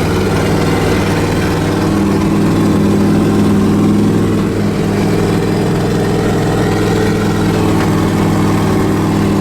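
Off-road mud bog vehicle's engine running steadily at an even pitch, heard from on board during a ride.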